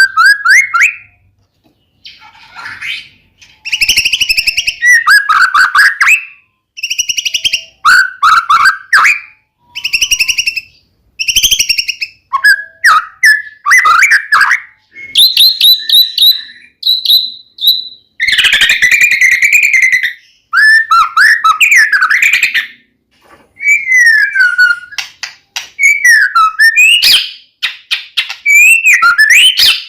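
White-rumped shama (murai batu) singing loud phrases of varied whistles, trills and sliding notes, with short pauses between them. This is a full-repertoire song ('gacor', 'full isian') of the kind played to a caged shama to provoke it into singing back.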